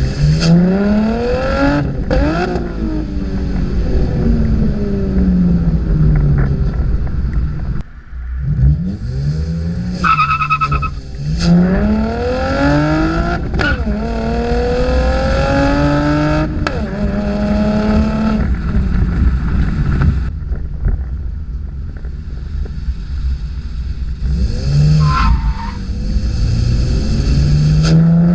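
2015 Chevrolet Camaro 1LT's V6 through its GM dual-mode performance exhaust, revving hard and dropping back several times, its pitch climbing and falling with each pull and gear change. A brief high squeal cuts in about ten seconds in.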